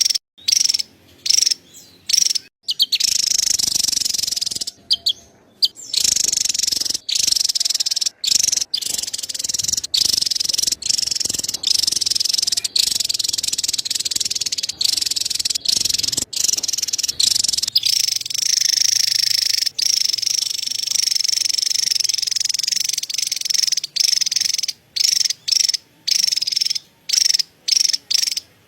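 Javan tesia giving its rapid, high-pitched chattering call: short separate bursts about twice a second at first, then a long near-continuous rattle, breaking back into separate bursts near the end.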